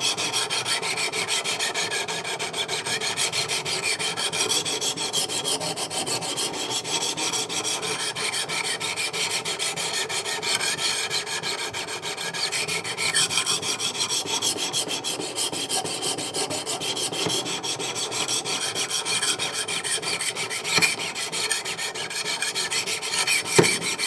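600-grit stones of a Wicked Edge Go guided sharpener rasping steadily along an S35VN steel knife blade in continuous stroking passes. Two brief clicks come near the end.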